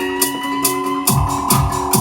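Band music with guitar over a steady high-pitched percussion tick, with slowly rising tones in the first second; a heavy kick-drum beat comes in about a second in, about two beats a second.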